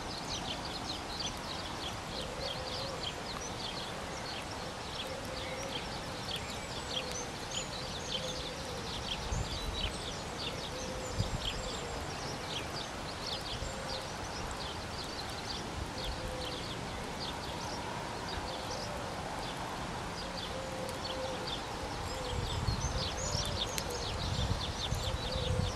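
Small birds chirping continuously outdoors, with low rumbles now and then.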